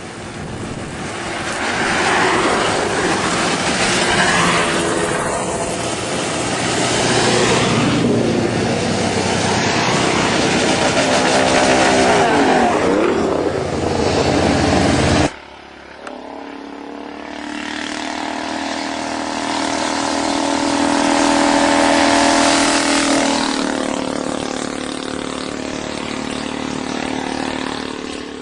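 Vintage racing motorcycles at full throttle going past, engine pitch rising and falling as they change gear and pass. The sound cuts off abruptly about halfway through, then another motorcycle's engine swells and fades as it goes by.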